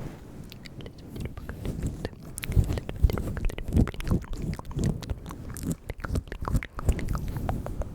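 Close-miked ASMR mouth sounds: wet clicks and smacks of lips and tongue in quick, irregular succession, the 'bugs' trigger.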